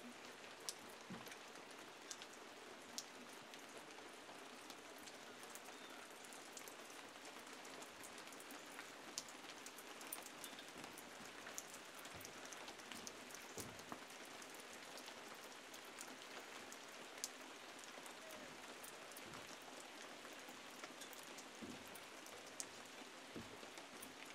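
Faint, steady light rain falling, with scattered single raindrops ticking.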